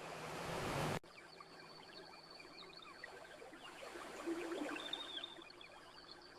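An ocean wave washes in and swells louder, then cuts off abruptly about a second in. Campfire crackling continues after it, a steady patter of small pops and snaps.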